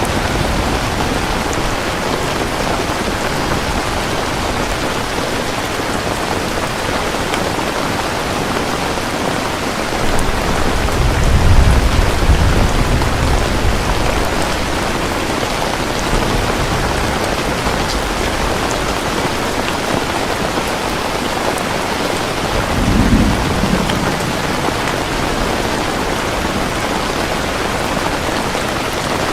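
Steady heavy rain falling, with a roll of thunder rumbling about ten seconds in and a shorter rumble near the end.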